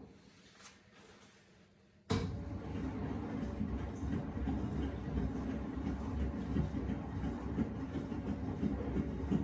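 Miele WS 5508 washing machine on a wool cycle with two blankets in the drum: the drum rests for about two seconds, then abruptly starts turning again with a steady low churning noise from the wet load, the pause-and-turn rhythm of the wash action.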